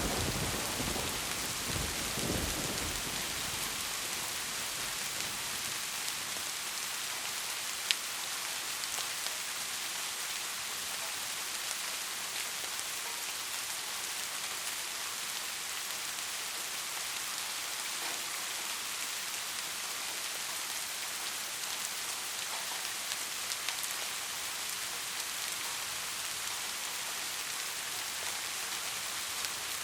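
Steady rain falling in an even hiss, with the tail of a thunder rumble dying away in the first couple of seconds. A single sharp tap sounds about eight seconds in.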